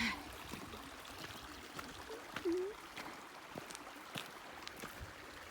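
A stream babbling steadily, with a few light scattered clicks and a brief small voice sound about halfway through.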